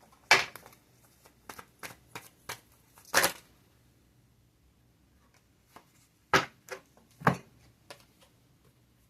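Tarot cards being handled and laid down, heard as a series of separate sharp snaps and taps. The loudest come about a third of a second in, about three seconds in, and twice more between six and seven and a half seconds in.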